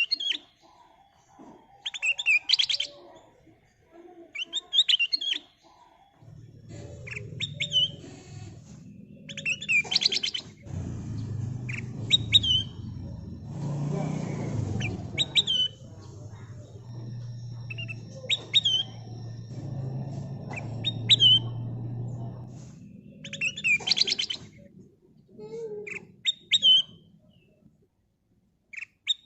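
Kutilang emas bulbul calling in short, bright whistled phrases with quick slurred notes, repeated every two seconds or so. A low rumble runs underneath through the middle stretch.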